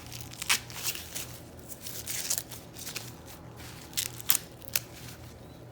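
Corn husks and ears being handled, giving a dry crackling and rustling with several sharp snaps, the loudest two about four seconds in.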